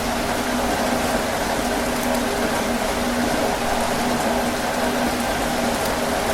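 Heavy rain drumming steadily on a tin roof, a dense even patter with sharper individual drop strikes, over a faint low hum.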